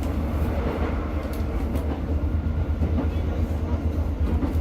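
Class 150 diesel multiple unit under way, heard from on board: a steady low rumble of the underfloor diesel engine and the wheels running along the track, with a few faint clicks.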